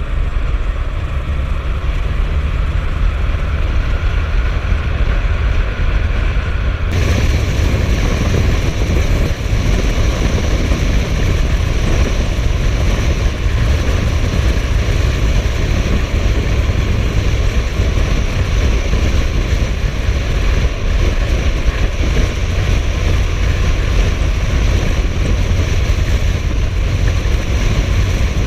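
Suzuki GSF1250S Bandit's inline-four engine running steadily under way, with heavy wind and road rush on the microphone; the hiss grows brighter about seven seconds in.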